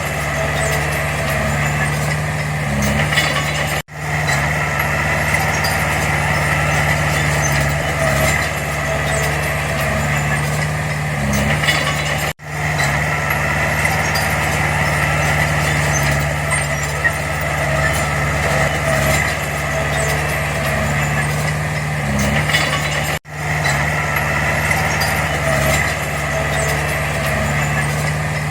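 Heavy earthmoving machine's diesel engine running steadily with a low hum, cutting out abruptly for an instant three times.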